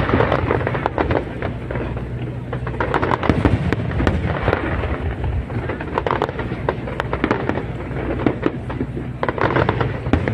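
Aerial fireworks display: a dense, continuous barrage of bursting shells with rapid crackling reports over a steady low rumble.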